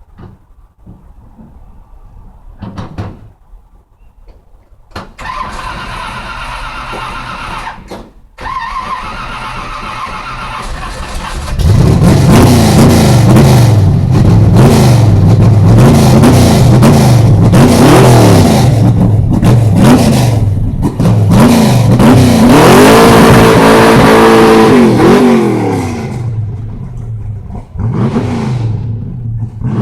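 Car engine starting to run about five seconds in, then from about twelve seconds revved hard over and over, its pitch bouncing rapidly up and down as it hits the rev limiter; near the end it is held against the limiter with a stuttering plateau before dropping back toward idle.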